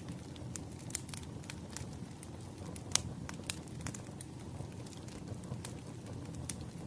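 Wood fire crackling, with irregular sharp pops over a steady low rumble; the loudest pop comes about three seconds in.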